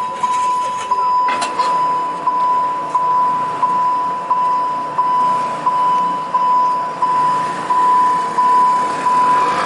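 Alishan Forest Railway level-crossing warning bell ringing: one steady tone struck about one and a half times a second, each strike fading into the next, signalling that a train is approaching. A sharp click sounds about a second and a half in.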